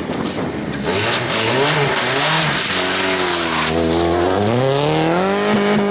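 Rally car engine accelerating hard: the pitch climbs and drops back once or twice, like gear changes, then rises steadily for about three seconds and holds high near the end.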